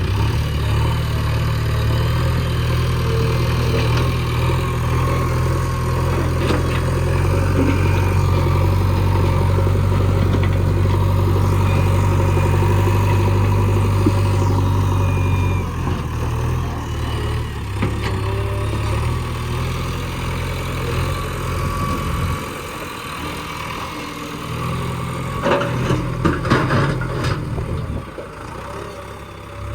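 Backhoe loader's diesel engine running steadily, easing off about three-quarters of the way through, with a short cluster of knocks near the end.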